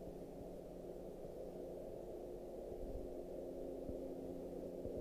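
A steady low hum with a few constant tones in it, unchanging throughout.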